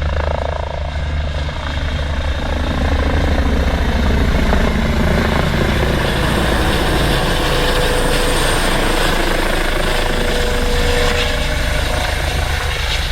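Emergency medical helicopter running close by: a loud, steady rotor chop over a low turbine rumble, swelling slightly in the first couple of seconds.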